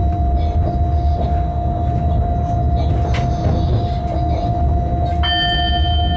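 Freight train running through a station's switches, heard from the cab: a steady low rumble with a constant whine, and a sharp click of the wheels over a joint or switch midway. About five seconds in, a high ringing tone starts and holds.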